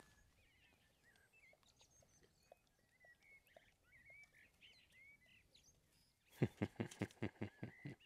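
Faint small birds chirping in short calls, then, about six seconds in, a loud quick series of short pulsed sounds, about five a second.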